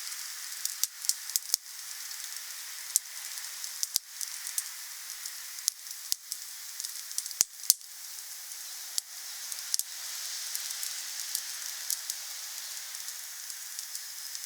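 Wood fire crackling: a steady hiss of burning wood with irregular sharp pops and snaps, a few standing out loudly, two in quick succession a little past halfway.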